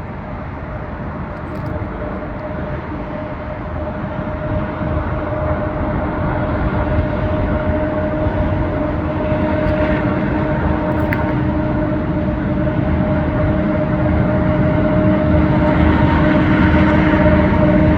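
Diesel locomotives at full throttle (notch 8) hauling a heavy coal train up a grade, led by an EMD SD70MAC: a deep engine rumble with a steady whine on top, growing louder as the train approaches.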